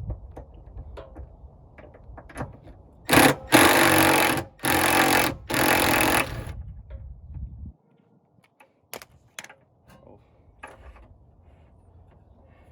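Power tool, an impact wrench, running in four short bursts on the exhaust fasteners, with light metal clicks and knocks around them.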